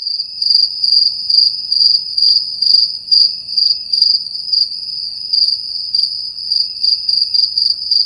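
Crickets chirping: a steady high-pitched trill with louder chirps about two to three times a second, cutting off suddenly at the end.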